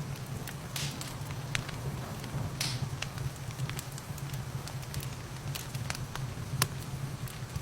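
Wood fire in a fireplace crackling, with scattered sharp pops and a couple of longer hissing snaps, over a steady hiss of rain and a low even rumble. The loudest pop comes near the end.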